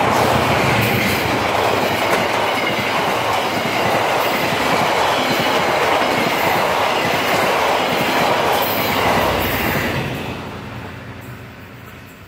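Passenger train rolling past at speed, its wheels clattering rhythmically over the rail joints. The noise fades away from about ten seconds in as the train moves off.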